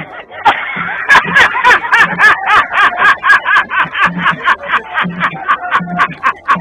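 A man laughing loudly in quick rhythmic bursts, about three a second, with sharp crisp clicks among them.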